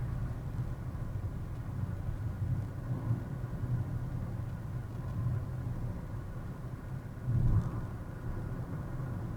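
Car driving, heard from inside the cabin: a steady low rumble of engine and tyre noise, with a brief louder bump about seven and a half seconds in.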